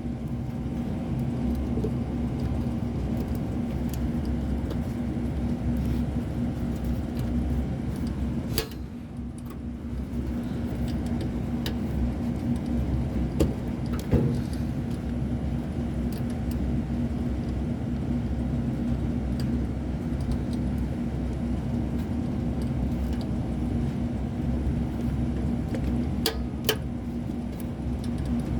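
A steady low machine hum with a droning tone, broken by a few sharp clicks and taps of handling.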